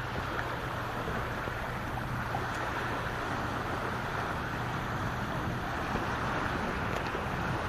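Sea waves washing onto a beach, heard as a steady rush of surf, with a steady low hum underneath.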